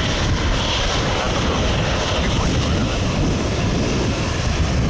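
Steady jet rumble of an Airbus A220-300's Pratt & Whitney geared turbofan engines on approach, heavy in the low end and unbroken throughout.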